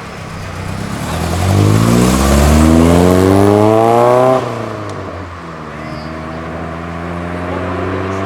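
Modified car accelerating hard, its engine revs climbing steadily for about three seconds and then dropping off suddenly about four seconds in. An engine then runs on at lower, steady revs.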